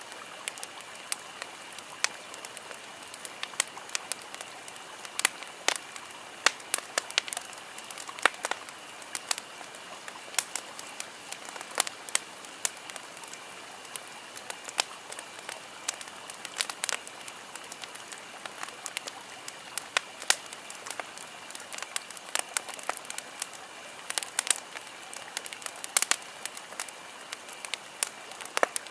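Wood bonfire crackling: irregular sharp pops and snaps over a steady hiss.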